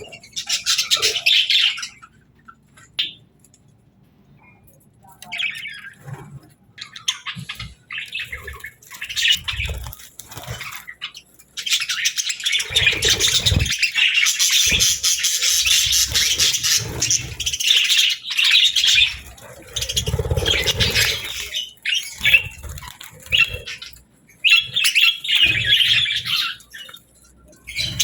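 Pet budgerigars chattering and squawking in bursts, with a long unbroken run of chatter through the middle, and a few low thuds among it.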